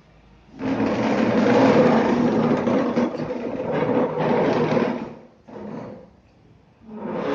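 A small child making a loud, rough, rasping noise for about four and a half seconds, a short burst of it a moment later, and it starts again near the end.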